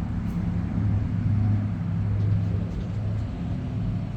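A steady low mechanical hum from an engine or motor running.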